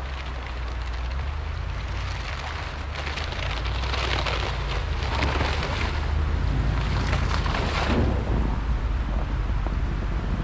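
Ram Power Wagon pickup truck driving, a steady low engine and road rumble with a rushing of tyres and wind that swells in the middle and eases near the end.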